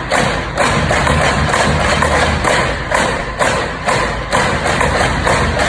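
Marching percussion section playing an exercise together: a dense wash of snare drum strokes with low bass-drum hits underneath, accented about twice a second.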